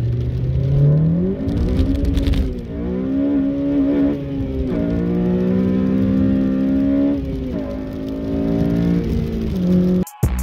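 8th-gen Honda Civic Si's four-cylinder engine, with a 3-inch cold air intake and catless downpipe, heard from inside the cabin while driving. Its pitch climbs under acceleration, drops at each gear change and holds steady between them, then cuts off near the end.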